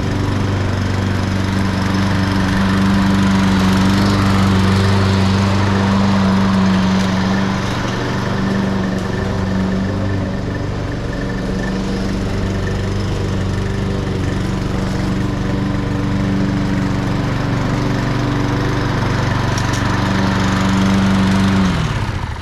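Walk-behind lawn mower's small engine running steadily at speed after its bad-gas carburetor repair, easing slightly in speed a couple of times, then shutting off with the pitch falling away near the end.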